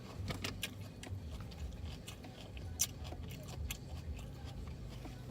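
Close-up eating noises: scattered small clicks and crunches of chewing and handling food, over a low steady hum.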